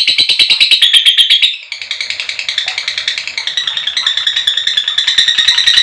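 Female lovebird's long 'ngekek' chatter: a rapid, unbroken string of shrill notes that breaks off about a second and a half in and starts again at once, a little softer.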